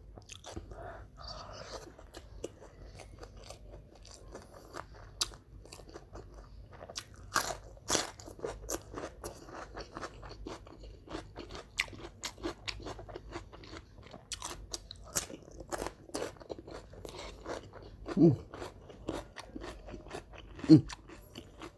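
Close-miked eating of a pecel lele meal, fried catfish with raw vegetables: irregular crisp crunches and chewing, with two short, louder low sounds near the end.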